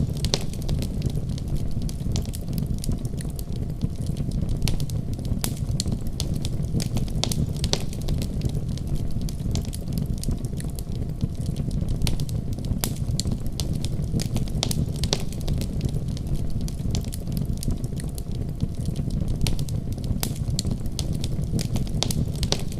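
Wood fire burning in a fireplace: a steady low rumble of flame with irregular sharp crackles and pops throughout.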